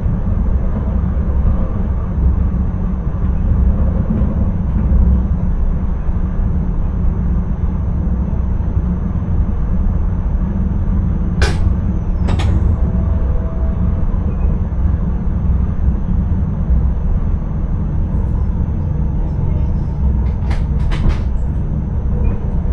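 Intercity train running, heard from the driver's cab: a steady low rumble with a thin high whine. A couple of sharp clicks come about halfway through, and a few more near the end.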